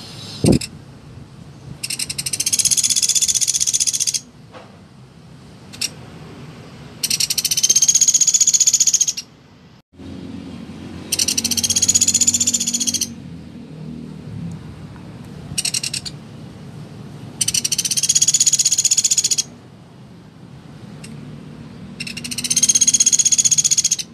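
Pelatuk beras woodpecker calling: high, fast rattling trills of about two seconds each, given five times with a short burst between, and a sharp click about half a second in.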